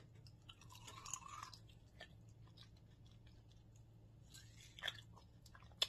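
Faint close-up mouth sounds of a person biting and chewing corn on the cob: soft crunches and small wet clicks, with a sharper bite about five seconds in.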